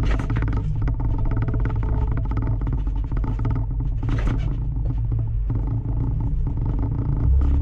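Car engine running as the car rolls slowly along, heard from inside the car: a deep, steady exhaust note, with a brief sharper burst about four seconds in.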